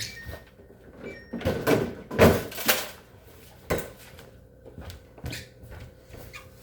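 Refrigerator bins and shelves being pulled out and handled: a run of knocks, rattles and scrapes, busiest about two seconds in, then a sharp knock and a few lighter ones.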